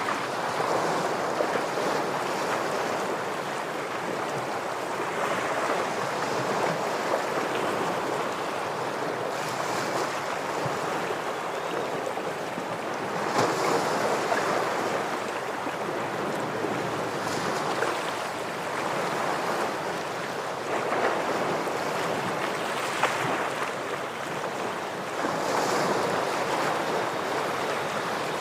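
Ocean surf washing against shoreline rocks: a steady rush of water that swells in surges every few seconds.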